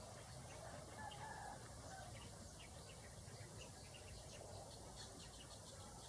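Faint bird calls and short chirps over a steady low background hiss, with a few brief calls about a second in.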